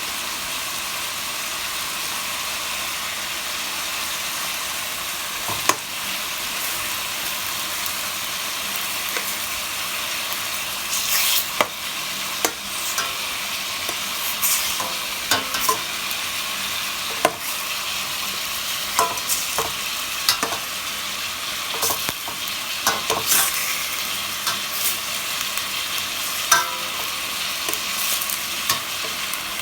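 Chicken pieces frying in hot oil in a pot, a steady high sizzle as they brown and give off fat. A utensil scrapes and knocks against the pan every so often as the chicken is stirred, more often in the second half.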